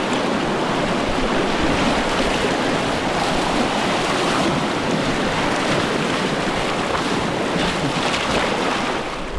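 Fast-flowing river water rushing steadily and loudly close to the microphone.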